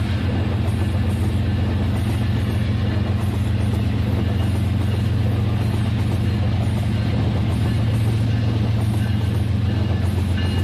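Rail King toy train running along its track, its small electric motor and gears giving a steady drone.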